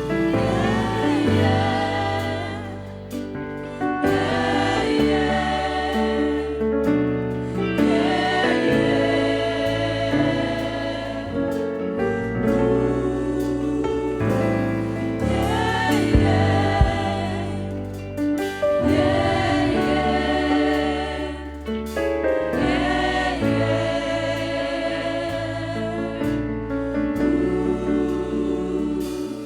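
Gospel worship band and choir performing, sung phrases with vibrato over sustained bass and keyboard chords that change every few seconds.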